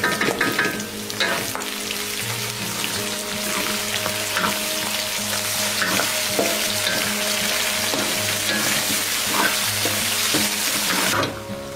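Pork belly and shrimp paste sizzling as they fry in oil in a metal pan, with a wooden spatula stirring and scraping through them in short strokes. The sizzle drops away sharply near the end.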